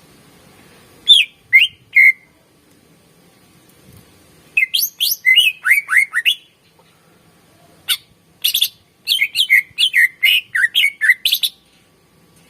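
Cucak ijo (green leafbird) singing. It gives three loud notes, then a quick run of sharp chirps, then a longer run of chirps that sweep downward in pitch after a short pause.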